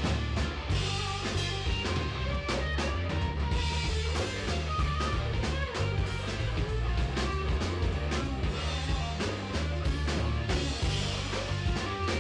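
Live band playing an instrumental passage: electric guitar over bass guitar and a drum kit keeping a steady beat.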